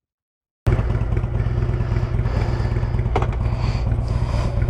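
Harley-Davidson Road Glide's V-twin engine running steadily with a low, even pulse, cutting in abruptly after a brief dead-silent gap.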